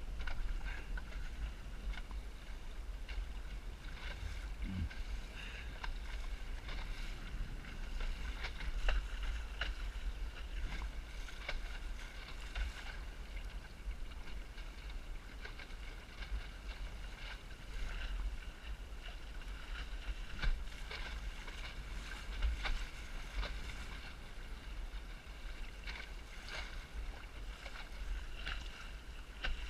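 Small Snark sailboat under way in high wind: a steady low wind rumble on the microphone, with frequent short slaps and splashes of water against the hull.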